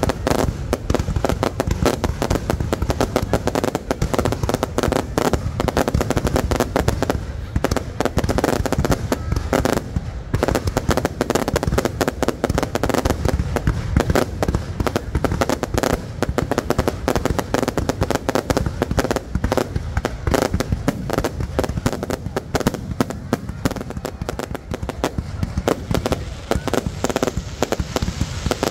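Fireworks display: a dense, continuous barrage of bangs and crackles going off in quick succession.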